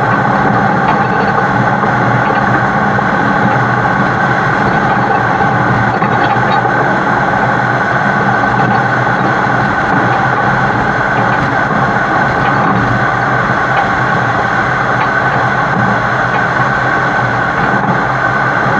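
Heavy-haul truck's diesel engine running steadily while pulling a super load, mixed with road and wind noise, heard from a camera mounted on the side of the truck.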